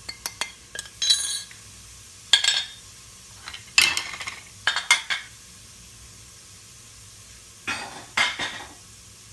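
A spoon stirring and scraping masala around a pot of onion paste frying in oil: a few quick clinks in the first second, then several separate scraping strokes over a faint, steady sizzle.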